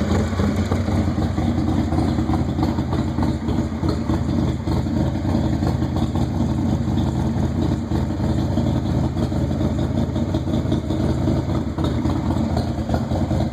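Engine with 850-1 lifters idling steadily while warming up after a cold start.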